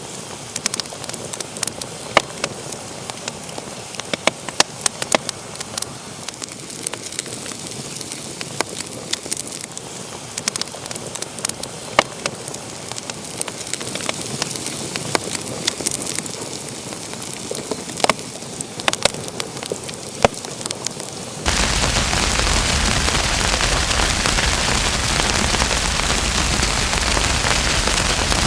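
Wood fire in a fireplace crackling, with frequent sharp pops and snaps over a soft hiss. About two-thirds of the way through it cuts off suddenly into a louder, steady, even hiss with no pops.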